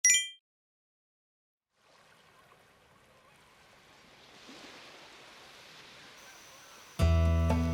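A short, bright chime at the very start, then a faint, steady hiss of rain that grows a little louder. About seven seconds in, loud music starts.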